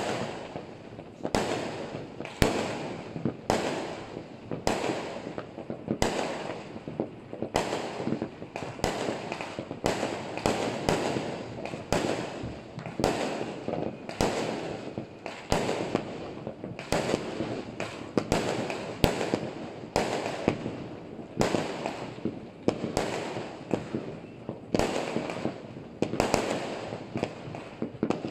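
New Year fireworks going off all over a town: aerial shells bursting in quick succession, a bang every second or so, over a steady din of more distant fireworks.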